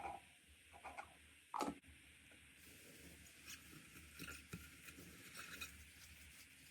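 Slime being handled: three short, soft squelches in the first two seconds, the loudest about a second and a half in, then faint crackly pops.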